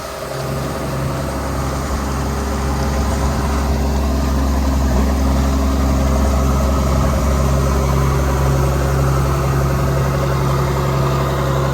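Case IH 2388 combine running steadily, a constant low engine drone.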